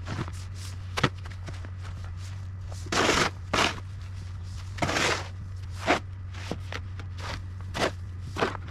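A series of irregular crunches and scrapes, the longest around three and five seconds in, over a steady low hum.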